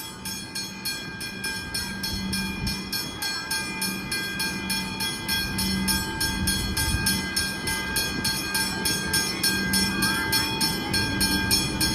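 Level-crossing warning bell, a Westinghouse hybrid bell, ringing in even, rapid strikes with a sustained metallic ring, while an approaching train's low rumble slowly builds under it.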